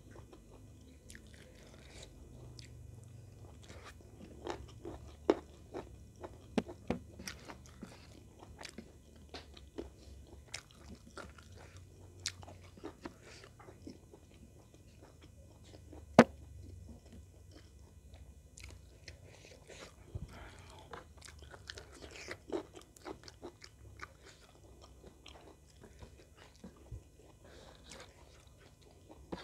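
Close-up eating sounds of someone eating fried chicken in sweet soy sauce with the fingers: chewing and crunching with scattered sharp mouth clicks, and one loud sharp click about halfway through.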